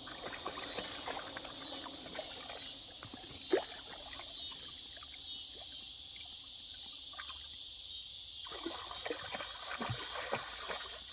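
Water sloshing and splashing irregularly as animals move through it, over a steady high chorus of crickets.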